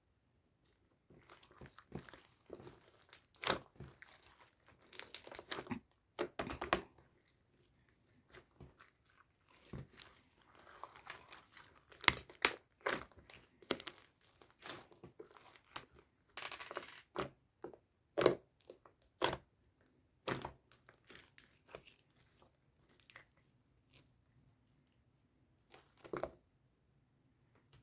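Hand-played slime being stretched, pressed and squished, giving irregular crackling, crinkling snaps. The snaps thin out near the end.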